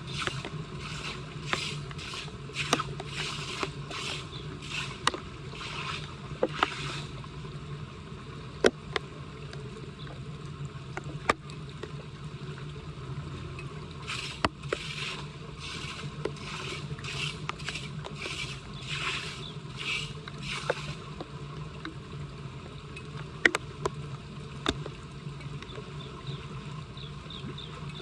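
Floodwater at a street storm drain, splashing and sloshing in runs of repeated short bursts over a steady low rush of flowing water, with scattered sharp clicks.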